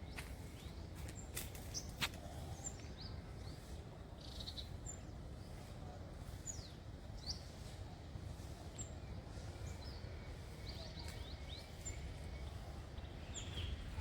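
Small birds chirping off and on over a steady low outdoor rumble, with a couple of sharp clicks about one and a half and two seconds in.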